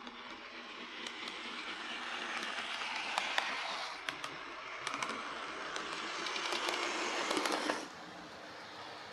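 OO gauge Lima Class 117 DMU model with a CD motor conversion running along the track: a motor and wheel whir with scattered clicks. It grows louder over several seconds, dips about four seconds in, rises again and cuts off suddenly near the end.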